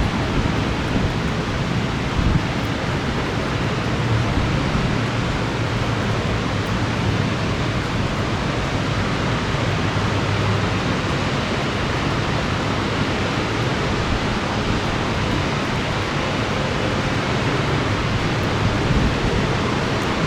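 Heavy thunderstorm rain and gusty wind: a steady, even rushing hiss with a choppy low rumble of wind buffeting the microphone.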